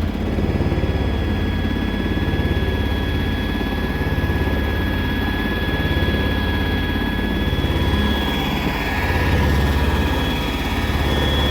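Engine on a 1978 Chevrolet C60 bucket truck running steadily, with a steady high whine over its low running sound.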